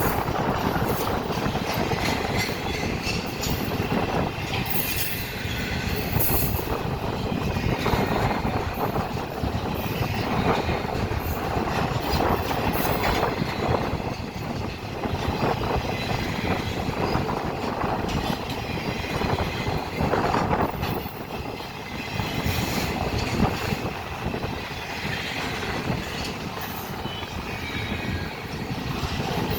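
Freight train cars rolling steadily past, with a continuous rumble of wheels on rail, irregular clacks over rail joints and occasional brief high wheel squeals.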